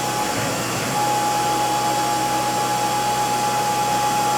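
CNC hobby mill spindle running while a long 1/2-inch three-flute end mill cuts dry, giving a steady whirring noise. A steady whine comes in about a second in.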